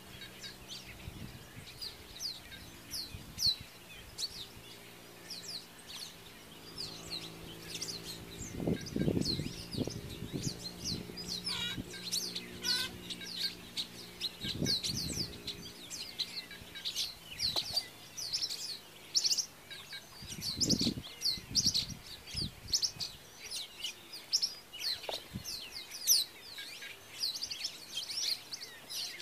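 Many small birds chirping in quick, high, overlapping notes. A faint low hum runs through the first half, and a few dull low thumps stand out, the loudest about nine seconds in.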